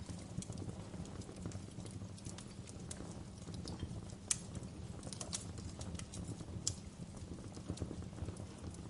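Fire crackling: scattered sharp pops and crackles over a low steady rumble of flames, with a couple of louder snaps midway.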